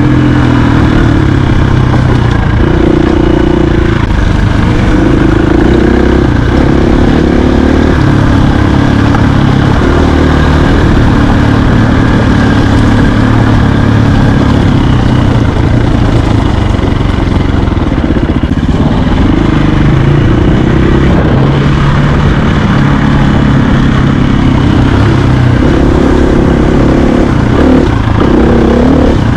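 Enduro dirt bike engine running as the bike is ridden, loud and continuous, its pitch stepping up and down with the throttle.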